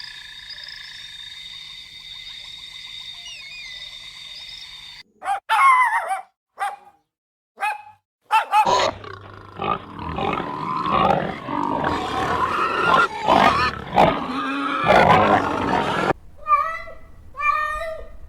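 A run of different animal calls in sequence. First come steady high tones for about five seconds, then a few short sharp calls, then about seven seconds of loud, dense calling. It ends with a series of evenly repeated pitched calls.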